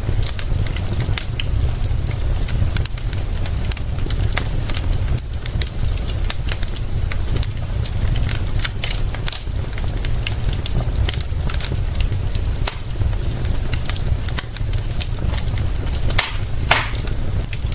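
Wood fire crackling, with many irregular sharp snaps and a louder pop near the end, over a steady low rumble of rain.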